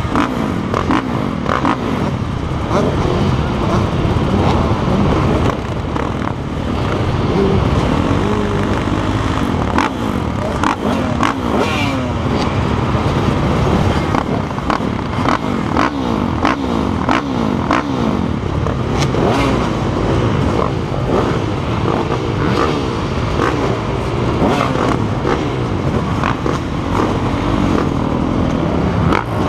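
Motocross bike engine revving hard, its pitch climbing again and again and dropping back as the rider accelerates and shifts gears, with frequent sharp knocks throughout.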